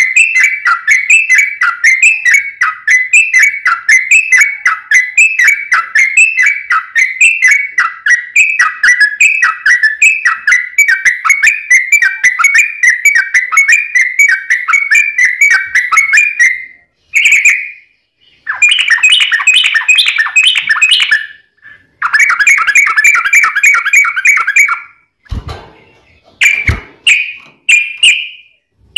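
Yellow-vented bulbul (trucukan) singing a long, rapid run of bubbly, repeated chirping phrases. After about seventeen seconds the song breaks into shorter bursts separated by pauses, and near the end two brief low thumps are heard.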